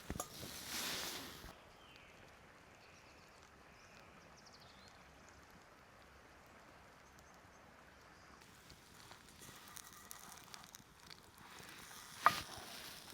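Quiet outdoor ambience with a brief rustle at the start and more handling rustles later, and one sharp click near the end.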